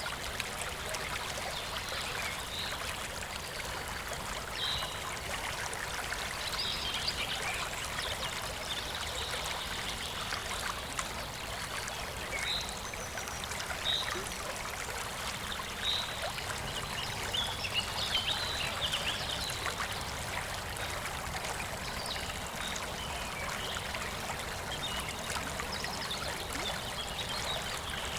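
Shallow river babbling and trickling steadily over stones, with short high plinks scattered through it.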